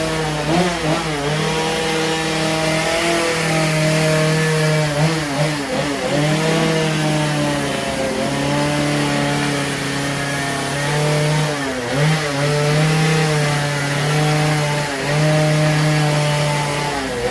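Chainsaw running at high revs while carving a wood block; its pitch dips briefly and climbs back several times as the throttle is eased and reopened.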